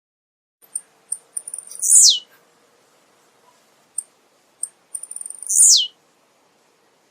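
Male blue-black grassquit (tiziu) singing: two songs about three and a half seconds apart, each a run of short high chips ending in a loud note that falls steeply in pitch.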